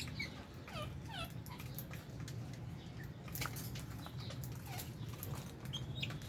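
Small parrots in an aviary calling with short, quick falling chirps, several in the first second and a half and a few later, among scattered sharp clicks. A steady low hum runs underneath.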